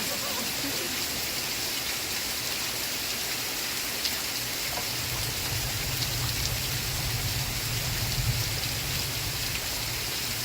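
Steady rain falling, an even hiss. A low rumble swells for a few seconds about halfway through.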